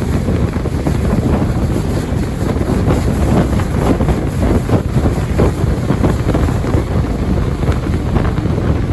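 Jet boat running under way, with wind buffeting the microphone in a loud, steady rumble.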